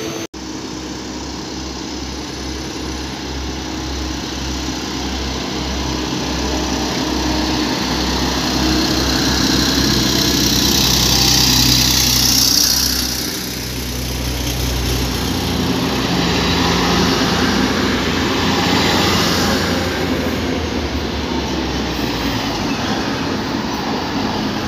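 A bwegt regional multiple unit moving along the platform, its engine running with a steady low drone and the train's noise swelling to its loudest about halfway through.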